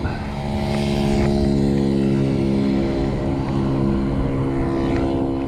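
A motor vehicle passing close by, its engine a steady hum that sinks slightly in pitch as it goes by, with tyre hiss rising and fading, over wind rumble on the microphone.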